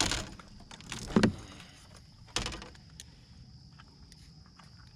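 Three hard knocks with light rattling between them, the loudest about a second in: fishing tackle being rummaged through and handled.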